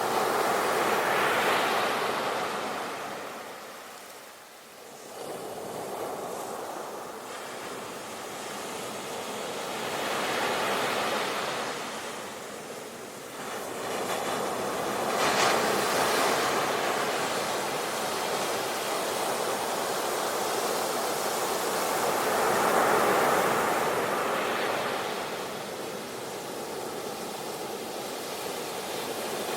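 Ocean waves breaking and washing on a shore, the surf swelling and fading in about four slow surges, with a lull about four seconds in.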